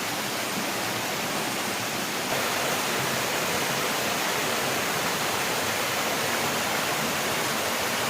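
Steady rushing of a mountain stream's flowing water, getting a little louder about two seconds in.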